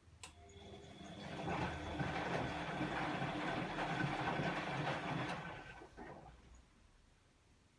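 Bosch WAE24162GB03 washing machine's motor turning the drum in a rinse-cycle tumble. A click, then the motor's whine and the tumbling rise over about a second, hold for a few seconds, and wind down after another click.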